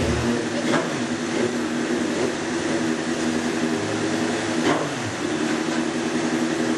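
Racing superbike engines running steadily together, a continuous mechanical hum, with a couple of brief sharper swells about a second in and near five seconds.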